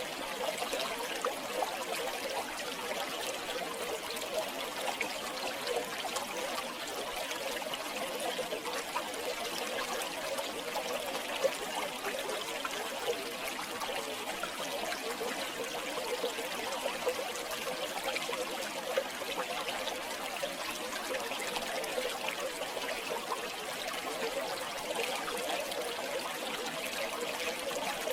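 River water flowing steadily, with small splashes.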